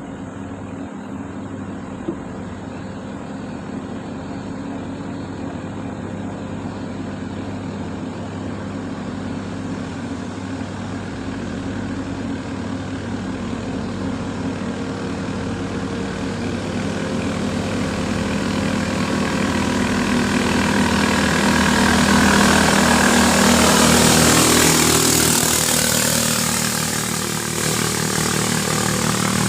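A motor engine running steadily, growing louder to a peak about two-thirds of the way through, dipping briefly, then rising again.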